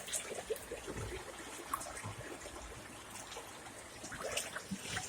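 Faint trickling water, with scattered small clicks and taps.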